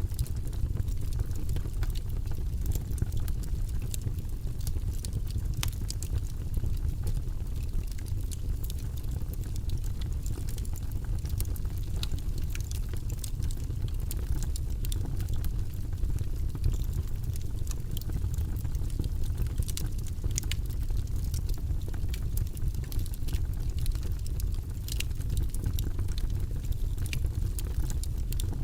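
Wood logs burning in a fireplace: a steady low rumble of flames with frequent sharp crackles and pops scattered irregularly throughout.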